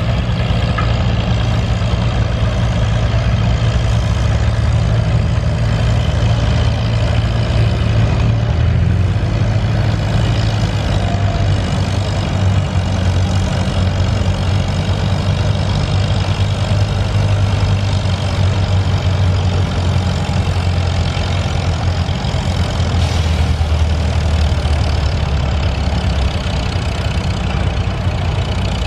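Farmall H tractor's four-cylinder engine running hard and steady under load, pulling a sled. Its pitch drops about a third of the way in and again near the end.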